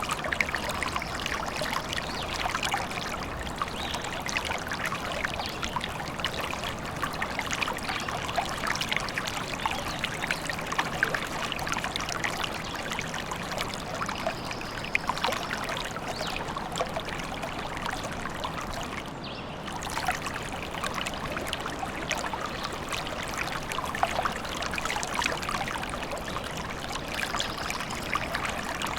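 Forest stream babbling and trickling steadily, with a brief dip in level about two-thirds of the way through.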